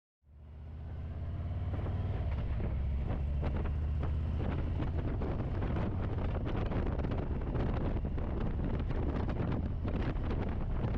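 Motorcycle engine running steadily, with wind buffeting the microphone; it fades in just after the start.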